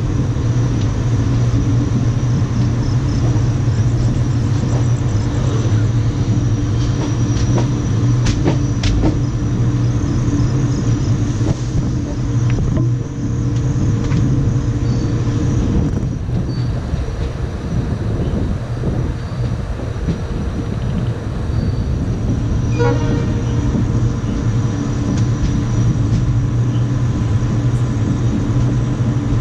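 Indian Railways express passenger train running at speed, heard from an open coach window: a steady, loud rumble of wheels on the rails, with a few sharp clicks about eight seconds in.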